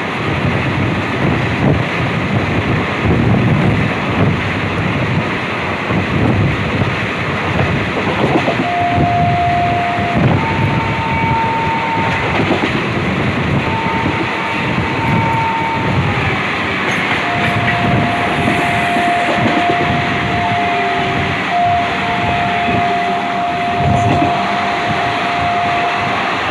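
Passenger train running at speed, heard from aboard a coach: a continuous rumble and clatter of wheels on the rails. From about a third of the way in, a steady whining tone joins it and steps between two pitches.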